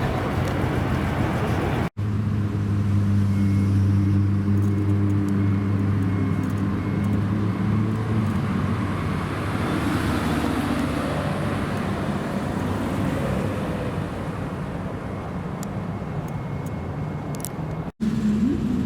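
Supercar engine running at a steady low pitch for several seconds, then easing off into general traffic noise; the sound cuts abruptly about two seconds in and again near the end.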